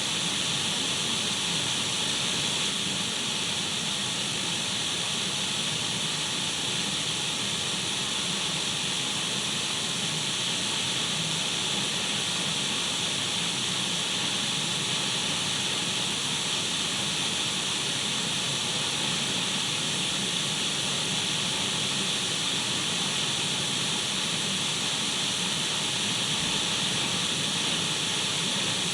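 Radio static: the steady, unchanging hiss of an untuned radio, strongest in its high part, with a few faint steady tones running through it.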